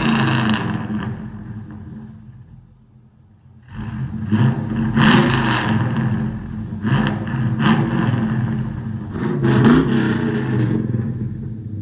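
Pickup truck engine running through a freshly fitted true-dual exhaust with an X-pipe: loud at first and dropping back toward idle, then revved in a run of blips from about four seconds in, with sharper peaks in the middle and near the end.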